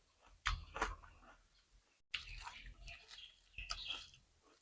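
Close-up eating sounds: two crisp crunching bites in the first second, then softer chewing and mouth noises.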